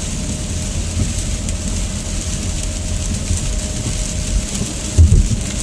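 Car interior noise while driving on a rain-soaked highway: a steady low road rumble with the hiss of tyres on wet pavement. Near the end come a couple of brief low thumps, the loudest sounds.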